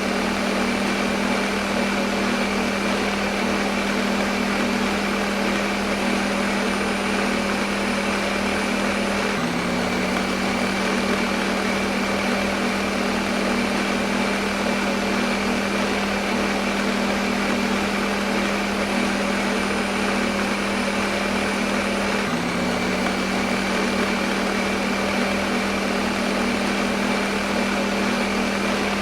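Electric kitchen blender motor running continuously at constant speed: a steady whirring hum over an even hiss. The pitch hitches briefly twice, about nine and twenty-two seconds in.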